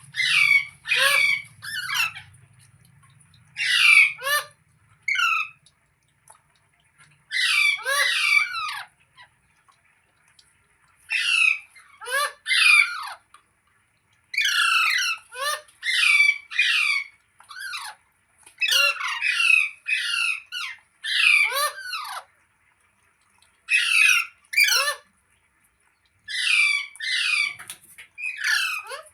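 Pet green parrot screeching: loud, harsh squawks in quick runs of two to five, each call sliding down in pitch, with short pauses between the runs.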